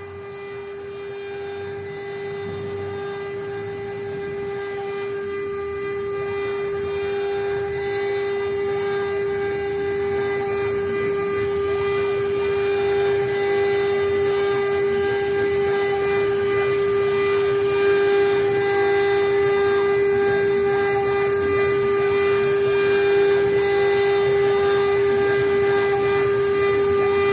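CNC router spindle running with a steady, even-pitched whine while it engraves and cuts wood, growing gradually louder.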